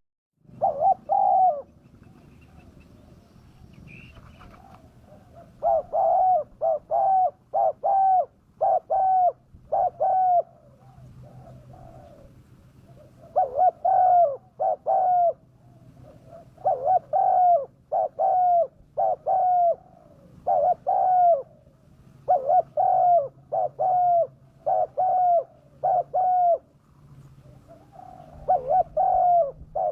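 Spotted dove (tekukur) cooing: phrases of several short coos each, repeated again and again with pauses of a few seconds between them.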